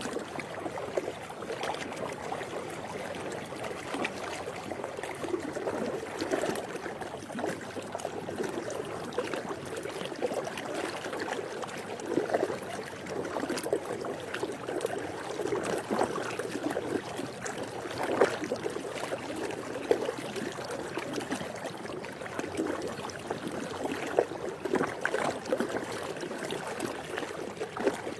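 Swimming pool water lapping and gurgling: a continuous wash of water noise broken by many small, uneven splashes.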